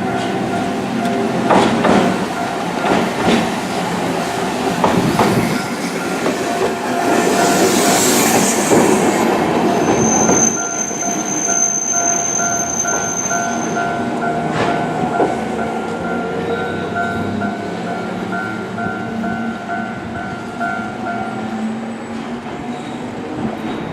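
Hankai Tramway streetcar No. 351 going past, its wheels knocking over rail joints, loudest as it passes. About ten seconds in a high wheel squeal rings for a few seconds, then the tram's running hum fades away.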